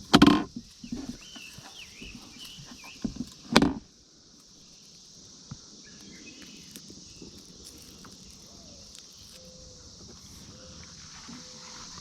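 Steady high-pitched buzzing chorus of periodical cicadas, with two loud close rustling knocks, one just after the start and one about three and a half seconds in.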